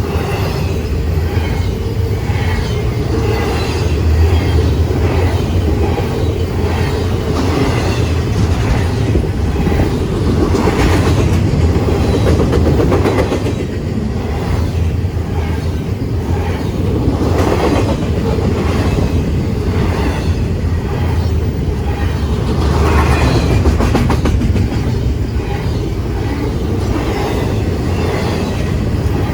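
Freight train cars rolling past, a steady low rumble with wheels clicking over the rail joints.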